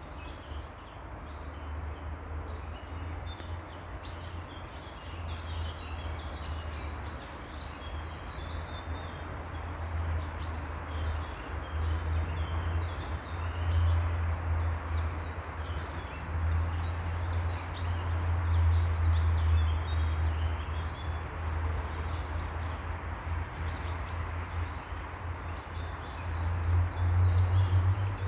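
Small birds chirping repeatedly, short high calls scattered throughout, over a steady low rumble and a constant background hiss.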